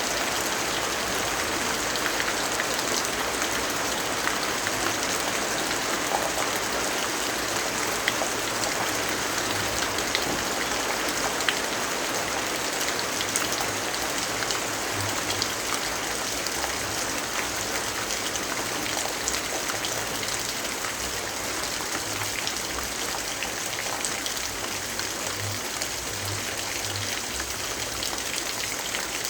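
Steady rainfall, an even hiss with many small raindrop ticks scattered through it.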